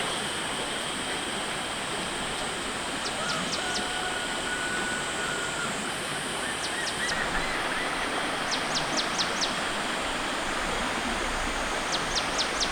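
Outdoor ambience: a steady rushing noise like running water, under a high, steady insect-like drone. Every few seconds comes a short run of four or five quick, high chirps.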